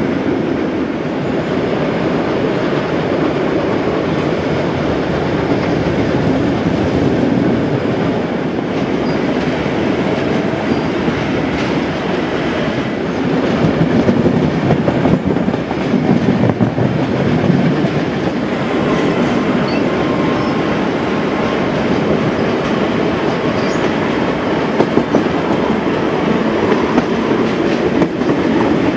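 A train running along the track, heard from aboard a carriage: a steady rumble with wheels clattering over rail joints, louder and rougher for a few seconds about halfway through.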